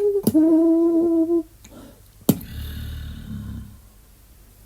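Beatboxer's vocal percussion: a held hummed note broken by sharp mouth clicks, then a single hard kick about halfway through with a low bass rumble that fades out over about a second.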